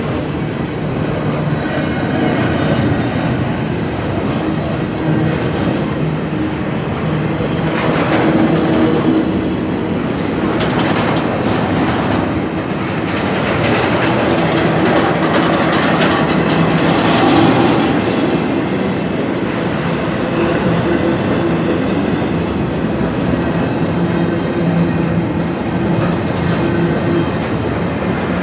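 CSX freight train rolling past, its wheels clacking steadily on the rails under a steady low hum.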